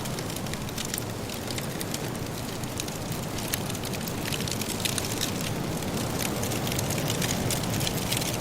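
Firewood crackling and popping in a fireplace: many quick sharp snaps, denser in the second half, over a steady low rush.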